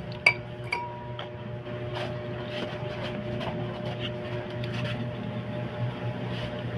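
A sharp metallic clink about a quarter second in, with a brief ring, then a second clink and a scatter of lighter clicks and taps of tools and small metal parts being handled, over a steady low hum.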